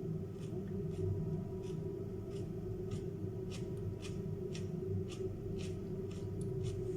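Chewing raw carrot and cucumber: crisp crunches about twice a second.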